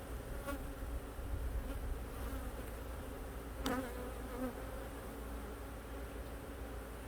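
Honeybees from an opened hive buzzing in a steady hum, stirred up by the inspection. Two sharp clicks break in, the louder one a little past halfway.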